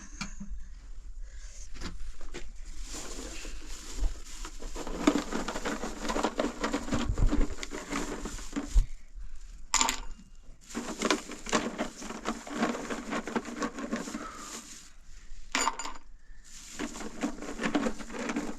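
Dishes and cutlery clinking and clattering in several irregular stretches, with a couple of sharper ringing hits.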